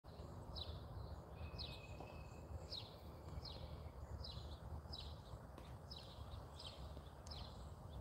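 A bird calls over and over, a short high note sliding downward, a little more than once a second, over a steady low background rumble.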